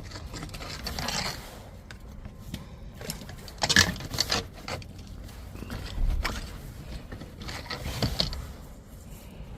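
Drain rods scraping and knocking against a blocked outside drain, pulling out small bits of debris: irregular scrapes and clicks, the loudest about four seconds in.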